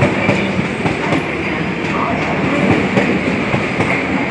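Electric Metro suburban train leaving the platform, its wheels clicking irregularly over the rail joints over a steady running rumble and hum.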